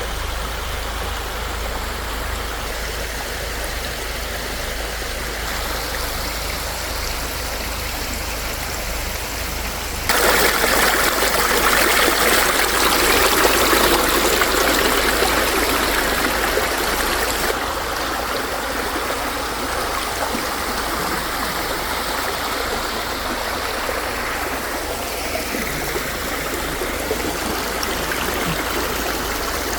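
Steady rain falling, an even hiss. It jumps suddenly louder about ten seconds in and drops back just as suddenly several seconds later.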